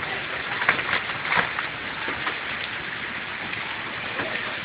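Hail and rain falling: a steady hiss with scattered sharp clicks of hailstones striking.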